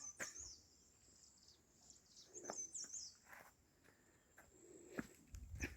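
Faint bird chirps, short high twittering calls at the start and again about halfway through, with a few soft clicks in between.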